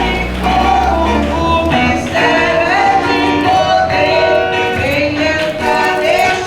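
Church worship music: a singing voice over band accompaniment, carrying across from a nearby church.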